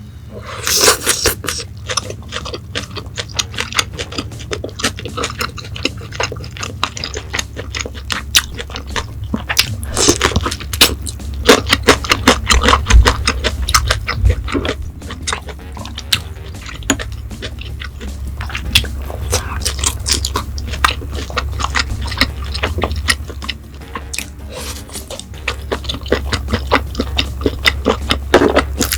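Close-miked chewing and biting of grilled Korean Hanwoo beef: many sharp, irregular wet clicks and smacks, over a steady low hum.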